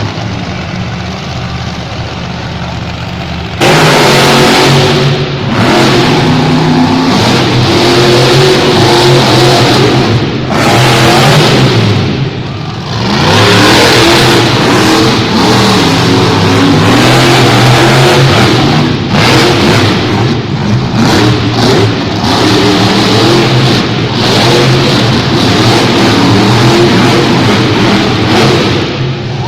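Monster truck engines running and revving hard, the pitch rising and falling again and again. The engines are fairly quiet for the first few seconds, then get suddenly much louder about three and a half seconds in, with brief drops in level as the throttle comes off.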